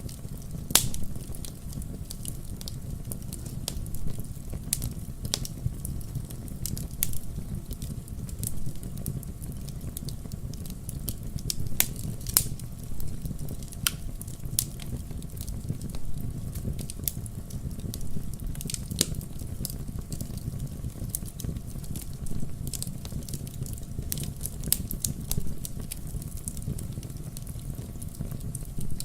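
Campfire crackling: a steady low rumble of burning flames under irregular sharp snaps and pops, with a few louder pops scattered through.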